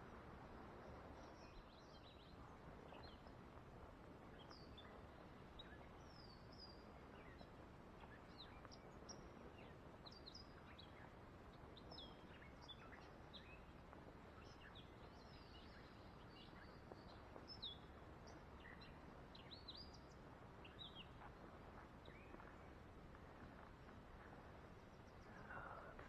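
Faint birdsong: many short chirps and quick gliding notes from several birds, scattered throughout, over a low steady outdoor hiss.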